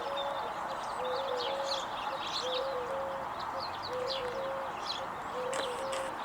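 Doves cooing in repeated short, low notes in groups of two or three, with small songbirds chirping over them.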